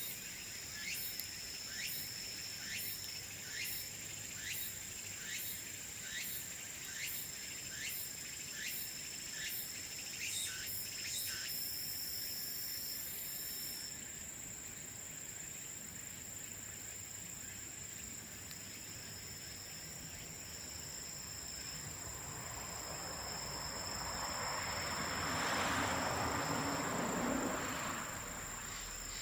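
Insects trilling steadily at a high pitch, joined for the first eleven seconds or so by a regular chirp about one and a half times a second. A broad rushing noise swells and fades near the end.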